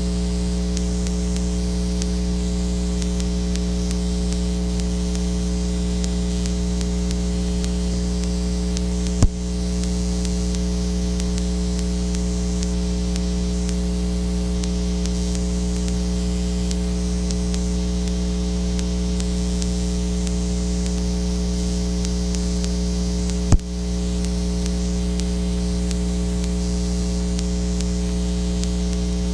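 Steady electrical mains hum with a constant hiss, and no other sound. Two sharp clicks break it, about nine seconds in and again about twenty-three seconds in.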